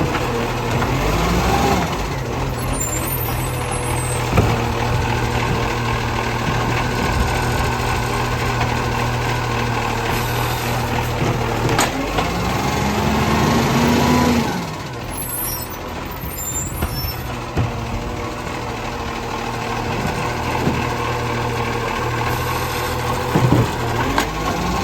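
Garbage truck's diesel engine running and revving up in rising pulls, with a few sharp knocks and short hisses of air brakes.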